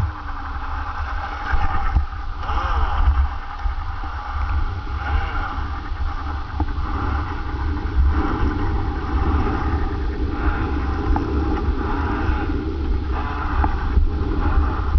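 Small foam RC plane's motor and propeller buzzing as it taxis on the ground, the pitch swelling and easing with the throttle. A steady low rumble of wind on the microphone lies under it.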